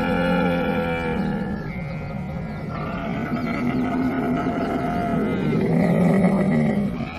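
Camel calling: a long, pitched vocal call with a low rumble beneath it, growing louder again near the end.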